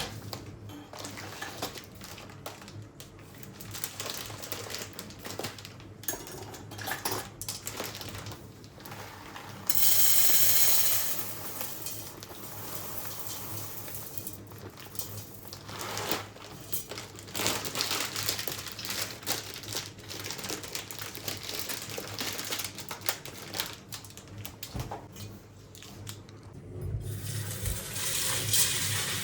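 Kitchen work sounds: dishes, utensils and containers clinking and being set down in a string of small knocks. A tap runs briefly about ten seconds in and is turned on again near the end.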